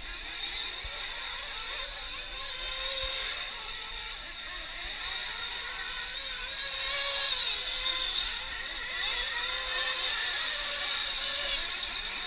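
Several nitro-powered 1/8-scale RC truck engines screaming at once, their high-pitched whines rising and falling as the trucks race around the track, loudest about seven seconds in.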